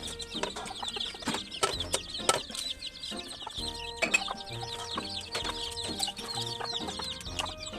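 Chickens clucking continuously in the background over music with steady held notes, with several sharp clicks, the loudest about two seconds in and again about four seconds in.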